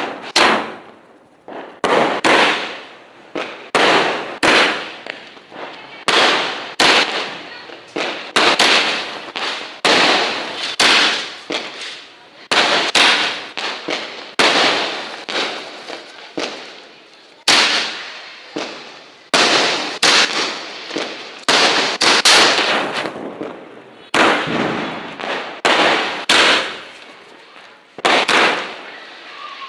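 Firecrackers going off one after another, sharp bangs roughly once a second at irregular spacing, each with a short fading tail.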